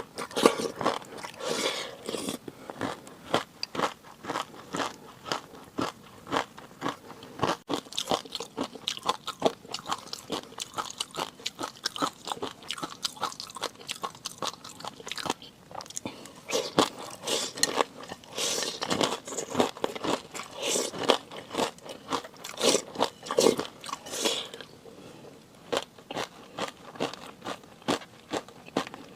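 A person eating close to the microphone, chewing with a dense run of quick, crisp clicks and smacks. The chewing turns sparser and quieter about five seconds before the end.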